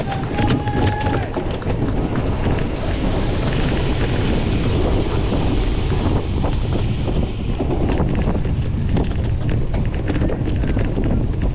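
Wind buffeting the microphone over a steady rough rumble, with many quick clicks and rattles from a cyclocross bike ridden hard over bumpy ground. A short high tone sounds near the start.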